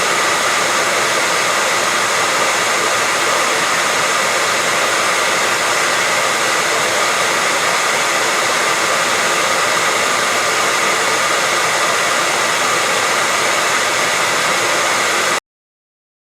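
Hair dryer running steadily, an even rushing hiss with a faint steady whine, played as white noise to lull babies to sleep; it cuts off abruptly near the end.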